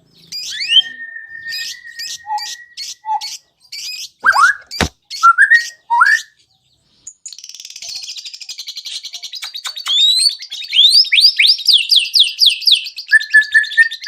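White-rumped shama (murai batu) singing a varied song: a long held whistle, a string of sharp upslurred notes, a brief pause just after the middle, then a fast run of rising chirps and rattling notes.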